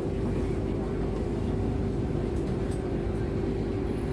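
Passenger ferry's engines running with a steady low drone and a constant hum.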